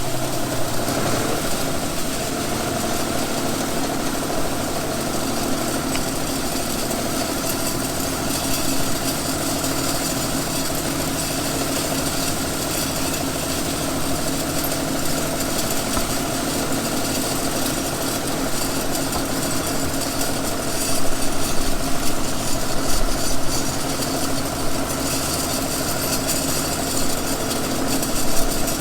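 John Deere 5210 tractor's three-cylinder diesel engine running steadily while pulling a drag harrow across a field. The sound grows louder and rougher for a few seconds about two-thirds of the way through.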